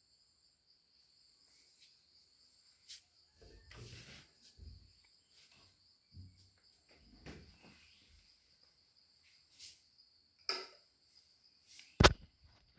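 Insects trilling steadily at a high pitch, with scattered soft knocks and rustles and one sharp click near the end.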